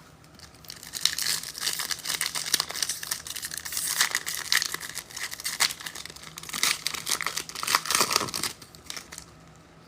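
A foil trading card pack being torn open and its wrapper crinkled by hand, a dense run of crackling and tearing that eases off near the end.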